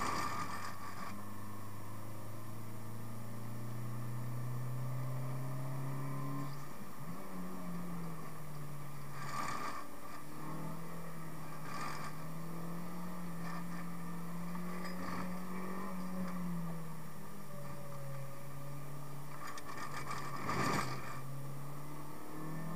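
Renault Megane's 1.6-litre 16-valve four-cylinder engine heard from inside the cabin under way. Its note holds steady, steps up about seven seconds in, drops back about seventeen seconds in and rises again at the very end. A few brief knocks sound over it, the loudest about twenty-one seconds in.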